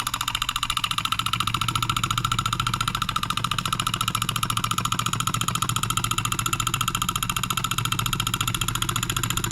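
Late-1940s Wilkemp Jr. Model E electric solenoid engine running steadily, its solenoid-driven piston and breaker points making a fast, even mechanical clatter.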